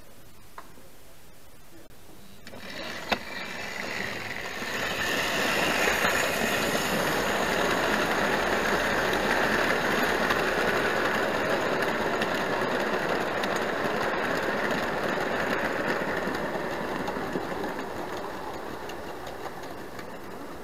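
Hornby Dublo three-rail model train running on the track, its electric motor and wheels whirring. The sound builds after a sharp click about three seconds in, holds, then slowly fades.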